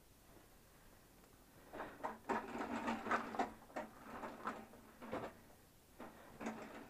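Irregular clicks, knocks and light rattles of a small machine being handled, starting about two seconds in and dying away a few seconds later.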